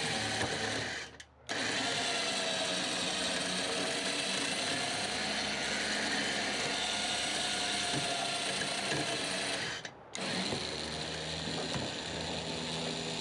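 Electric winch motor and gear train running steadily under load with a whining hum, hauling a seized tractor. It cuts out briefly about a second in and again about ten seconds in.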